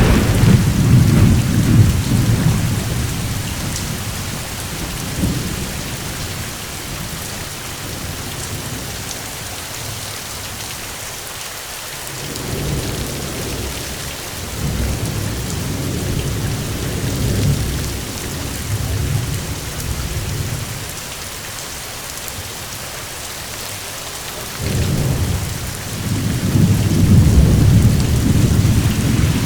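Steady rain hissing, with rolling thunder rumbling in waves underneath. The thunder is heavy at the start, dies down, swells a few times in the middle, and builds to a loud rumble again near the end.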